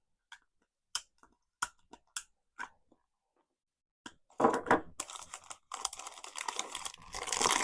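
A few light clicks, then from about four seconds in a dense crinkling and crackling of plastic packaging being handled and unwrapped.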